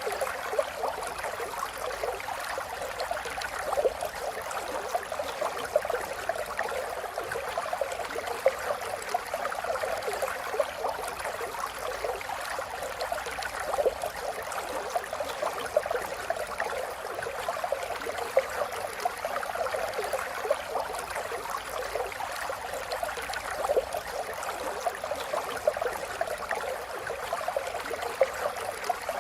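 River water flowing and babbling over stones, a steady rushing with many small splashes and gurgles.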